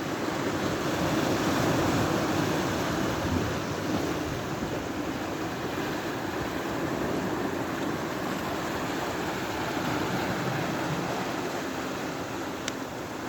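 Sea waves washing onto the shore, swelling about a second in and then settling into a steady wash.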